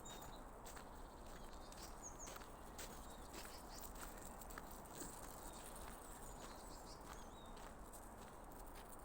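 Footsteps on a path, a run of irregular soft steps. Several short, high, downward-sliding bird chirps come through faintly.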